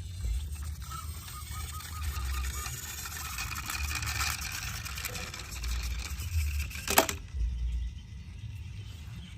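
Small diecast toy vehicles being handled and rolled, a continuous light clatter that stops with one sharp click about seven seconds in, over a low rumble.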